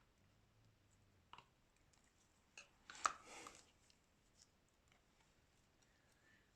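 A few small, sharp clicks and one louder click about three seconds in, followed by a brief scrape: tools and phone parts being handled during a smartphone screen replacement. Otherwise near silence.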